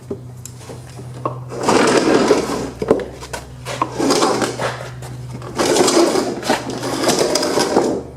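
Steel mower deck of a Cub Cadet XT1 lawn tractor being dragged out from under the tractor: scraping and rattling in three long stretches, with a steady low hum underneath.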